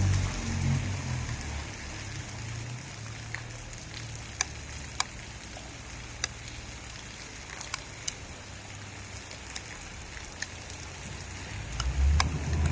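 Steady rain during a thunderstorm, with scattered sharp drops ticking close by. A low rumble fades out over the first couple of seconds and builds again near the end.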